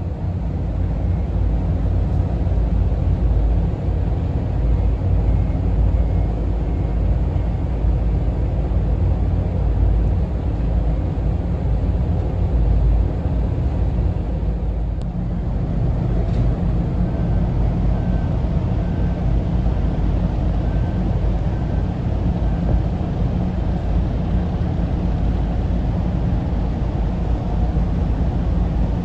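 Steady deep rumble of high-speed ferry engines in the harbour, running on without a break.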